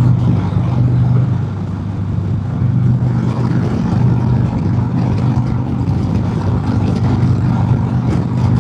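Harley-Davidson Road King's Milwaukee-Eight V-twin running steadily at highway cruising speed, with wind and road noise on a helmet microphone.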